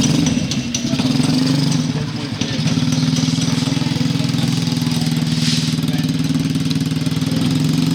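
Off-road motorcycle engine idling steadily, its note shifting slightly about two and a half seconds in.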